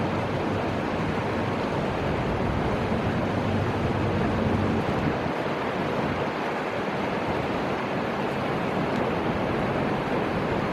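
Steady rushing noise of flowing river water and wind, even throughout with no passing train.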